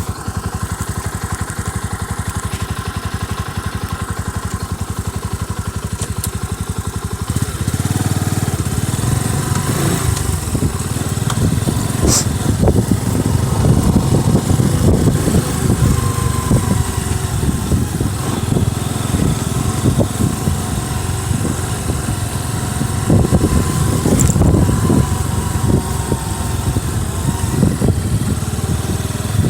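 Boxer motorcycle engine running steadily just after starting, then louder and more uneven from about seven seconds in, as the bike gets under way.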